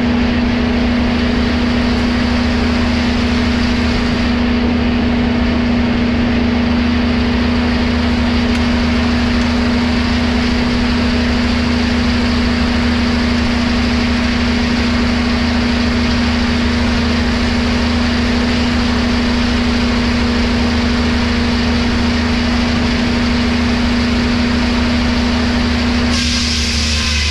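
Engine-driven sawmill machinery running steadily, a constant hum over a wide rush of mechanical noise. The sound changes abruptly near the end.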